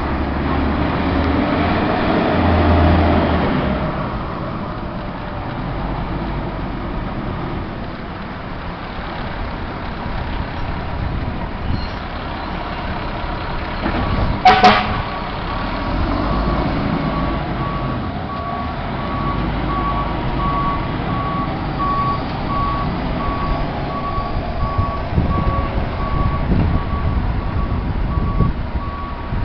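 Fire trucks' diesel engines running, with a short, loud horn-like blast about halfway. From then on, a reversing alarm beeps steadily at one high pitch as an apparatus backs into the station.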